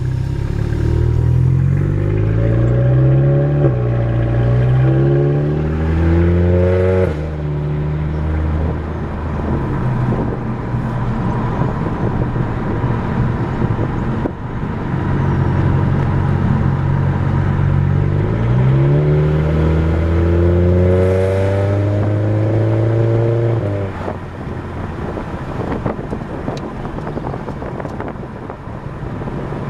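A 2010 Volkswagen GTI MK6's turbocharged four-cylinder, straight-piped behind a 3-inch downpipe, heard from the cabin with the windows down while driving. The exhaust note climbs in pitch in several steps, holds steady, then climbs again. About six seconds before the end it drops off and goes quieter.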